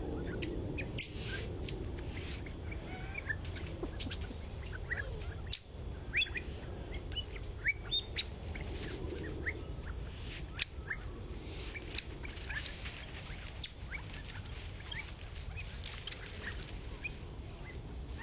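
Birds chirping: many short, high calls scattered throughout, over a steady low background rumble.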